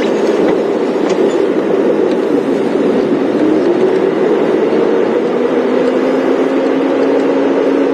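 Safari game-drive vehicle's engine running as it drives off, a steady drone whose pitch drifts slowly, with road rumble.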